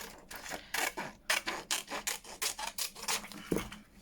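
Scissors cutting through paper, a quick series of short crisp snips, with a low knock about three and a half seconds in.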